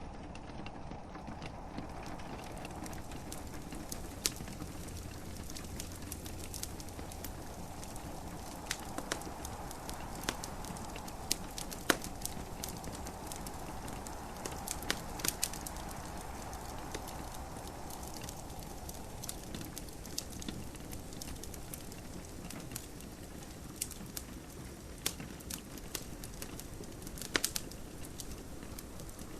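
Wood fire crackling in a fireplace, with irregular sharp pops scattered through it, over a steady hiss of gentle rain.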